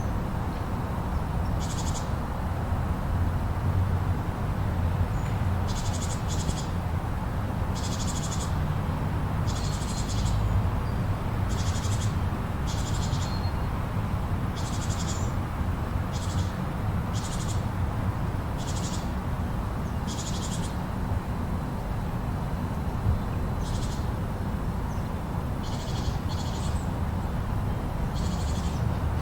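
Blizzard wind blowing in a steady low rush, with short high hissing bursts every second or two.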